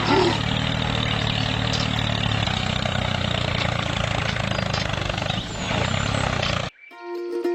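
A motor running steadily with a low hum and a noisy whir, then cutting off abruptly just before the end.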